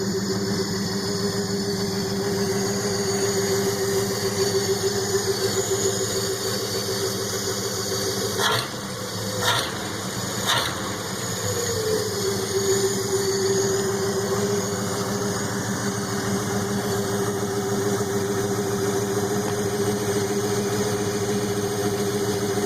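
Straight-piped 1968 Ford 300 4.9-litre straight-six idling steadily. About nine seconds in, the steady note breaks off briefly with three sharp clicks about a second apart, then settles back to the idle.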